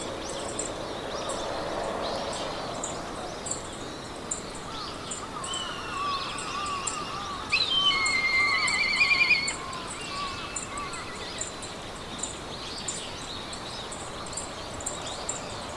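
Meadow ambience: several birds singing over a steady hiss of wind in the grass, the loudest a trilling song about halfway through. A high, short chirp repeats evenly a few times a second throughout.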